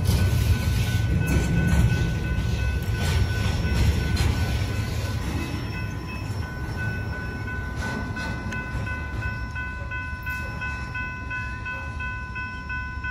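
Intermodal freight train of truck trailers on flatcars rolling past close by: a loud low rumble with wheel clatter that fades as the train moves away. A steady high ringing from the grade-crossing warning bell stands out more in the second half as the train noise drops.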